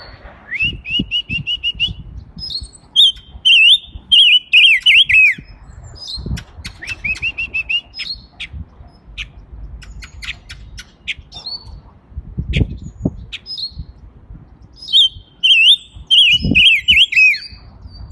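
A small caged songbird singing in bouts: quick trains of even chirps and two loud stretches of varied warbled phrases with rising and falling notes, separated by short pauses. A dull knock sounds about two-thirds of the way in.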